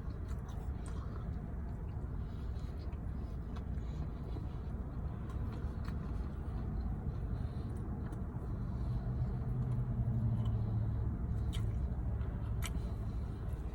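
Low, steady engine rumble with a hum that swells for a few seconds past the middle, and a few faint clicks.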